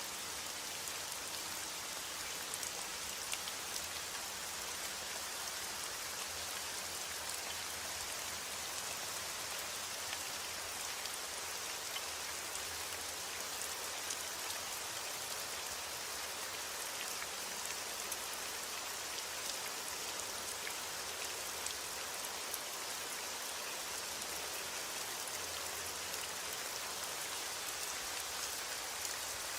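Steady heavy rain falling on a surface, an even hiss with many fine drop ticks.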